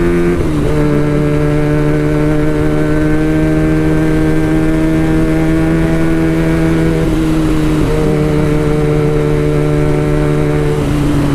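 Benelli TNT 300's 300 cc parallel-twin running through an Ixil full-system aftermarket exhaust, held at a steady engine speed. Its pitch steps slightly a few times.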